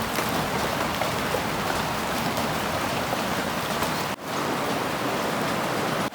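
Steady rain falling, an even rushing hiss, with the sound cutting out for a moment about four seconds in.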